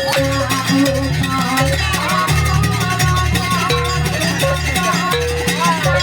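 Live music for a Banyuwangi jaranan dance: steady drumming with a held, sliding melody line above it.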